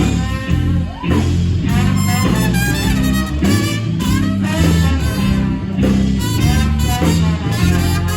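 Live band playing an instrumental passage with a steady bass line and beat, with no singing.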